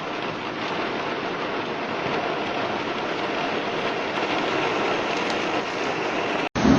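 Heavy rain pouring down, a steady hiss. It cuts off abruptly near the end, and a louder recording begins.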